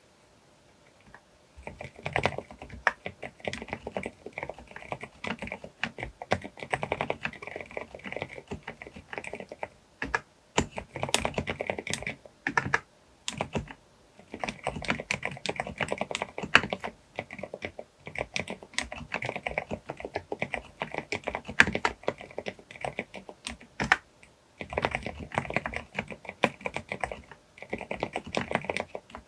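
Fast typing on a Groovestone GV10M-8K mechanical keyboard with silent (low-noise) brown 38 g switches: dense runs of muted keystrokes, starting about a second and a half in and broken by short pauses a few times.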